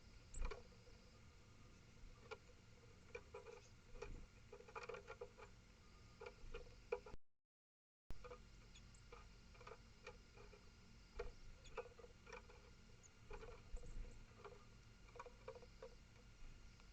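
Faint, irregular clicks and taps of a small animal feeding at a wooden bird table, some in quick clusters, over a low steady hiss. The recording drops out for about a second around seven seconds in.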